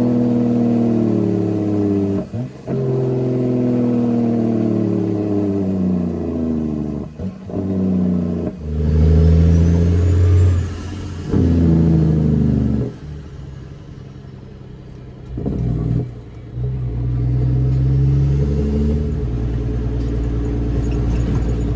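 Straight-piped CAT C13 diesel of a Kenworth W900B dump truck running loud on the road, its engine note sinking in pitch over several stretches of a few seconds, each ended by a brief break. Near the end it settles to a lower, steadier note.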